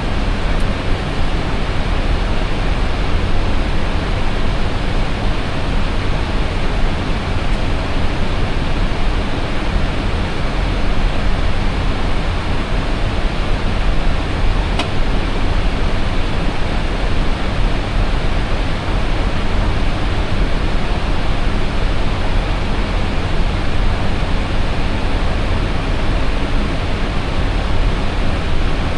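Steady rushing cockpit noise of an Airbus A320 in flight: airflow and engine noise with a deep rumble beneath, unchanging throughout.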